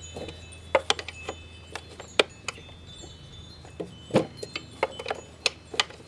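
Wrench clinking against a bolt on a lawn mower as it is worked loose a little at a time: about fifteen irregular, sharp metal clinks, some ringing briefly, over a low steady hum.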